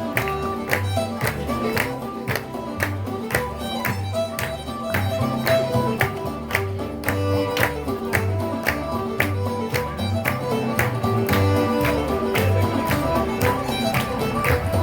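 Irish traditional music: a fiddle playing a reel with a guitar accompaniment, in a steady, even beat.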